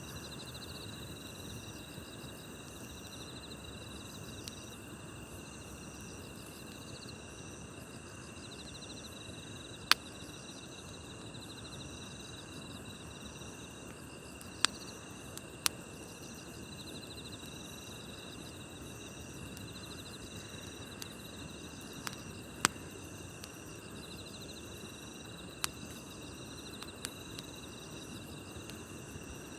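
Crickets and other night insects chirping steadily in several overlapping pulsing trills, over a low campfire rustle with a few sharp crackles and pops from the burning wood.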